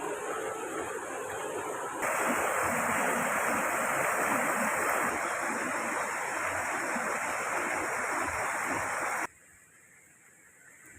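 Steady rushing water noise, of a river or heavy rain, that jumps louder about two seconds in and drops off abruptly near the end.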